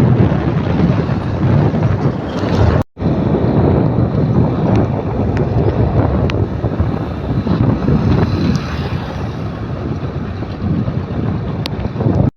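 Truck engine running, with wind buffeting the microphone. The sound cuts out for an instant about three seconds in.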